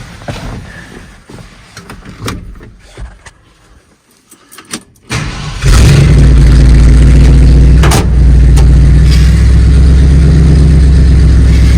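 1972 Ford F250 pickup's engine cranks briefly and starts about five and a half seconds in, then runs loud and steady. Before it come a few light clicks and knocks, and a sharp knock sounds a couple of seconds after it starts.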